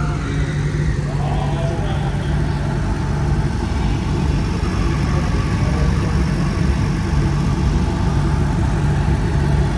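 A car engine running steadily at a low, even pitch, with no sharp revving.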